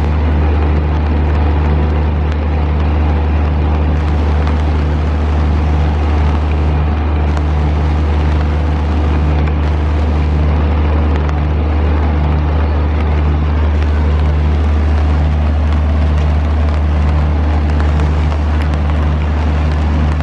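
Passenger train running along the track: a steady, loud rumble over a constant low hum.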